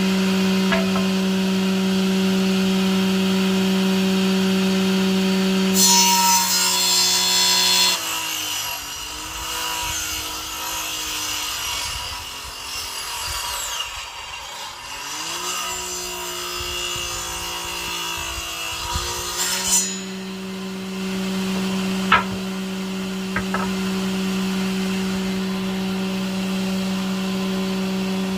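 An electric power tool running steadily, then cutting into wood for about twelve seconds in the middle: its pitch sags and wavers under the load while the cut adds a loud hiss, before the motor returns to its free-running hum. A couple of sharp knocks follow shortly after.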